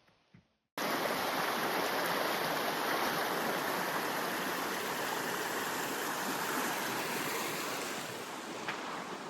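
Steady rushing of flowing river water, cutting in abruptly about a second in.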